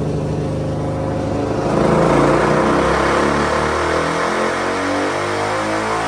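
Suzuki DR-Z400's single-cylinder four-stroke engine running on a dyno through an MRD Z-Pro exhaust. Its pitch holds steady at first, then from about a second and a half in it climbs steadily as the engine is pulled up through the rev range under load.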